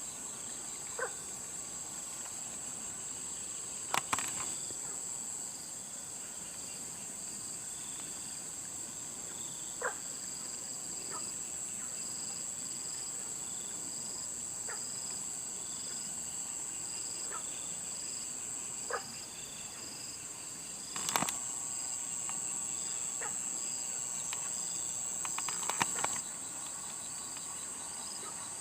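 Steady high-pitched chorus of insects, with a fainter pulsing call repeating about once a second. A few sharp knocks stand out over it, about 4 seconds in and twice near the end, with short faint chirps in between.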